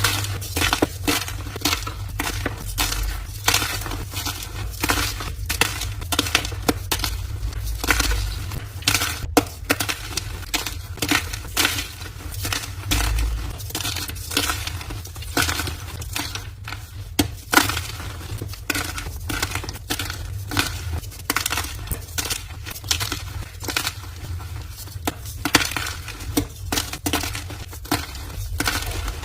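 Blocks of gym chalk being crushed by hand, with a continuous run of dense crunching and crumbling crackles.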